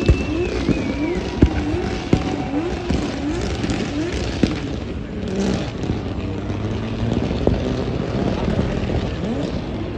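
Drift car engine revving hard in quick repeated rising sweeps, about two a second, with a few sharp exhaust bangs, then settling into a more even, blurred engine sound after about four seconds.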